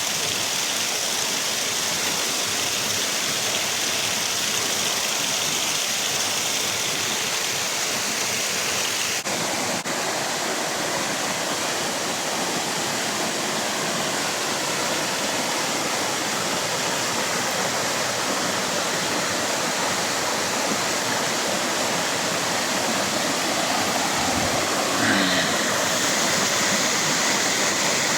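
Waterfall rushing: steady, dense, unbroken falling-water noise.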